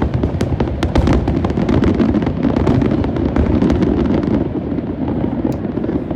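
Aerial fireworks going off in a rapid barrage: a dense rumble of booms with many sharp cracks and crackles, thinning out after about four and a half seconds.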